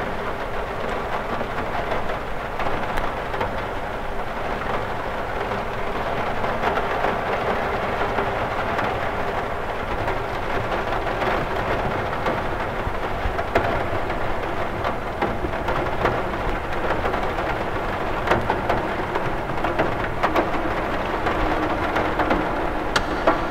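Steady rain on a window, many drops ticking against the glass over an even, dense rush of water.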